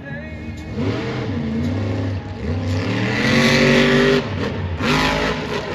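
Monster truck's supercharged, alcohol-fuelled engine revving hard in surges, the pitch climbing to its loudest about three to four seconds in, cutting off abruptly, then blipping again about a second later.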